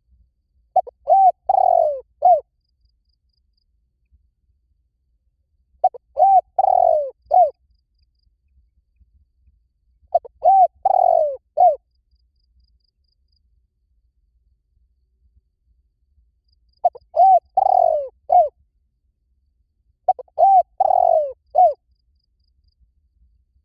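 Spotted dove cooing: five phrases of three or four low, arching coo notes each, repeated every few seconds.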